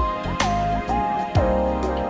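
Background music: a keyboard lead melody whose notes glide from one pitch to the next, over low drum hits.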